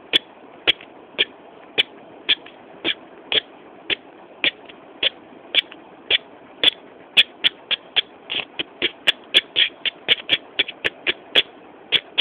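Sharp, short ticks over a steady hiss. They come about twice a second at first, then faster and less evenly, about four a second, from roughly eight seconds in.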